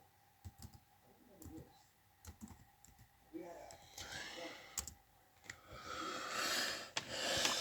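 Typing on a computer keyboard: scattered key clicks, followed in the second half by stretches of soft hissing.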